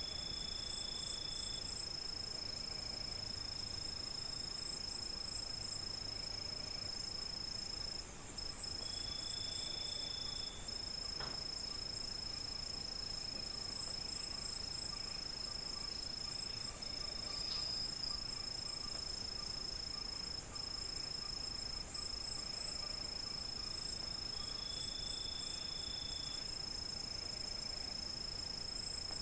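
Night chorus of crickets and other insects: a steady, unbroken high trill under a band of high chirping. About three times, another insect or frog adds a lower call roughly a second long.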